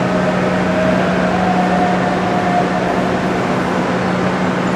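Steady, loud rumble of a passing train, with a constant low hum underneath.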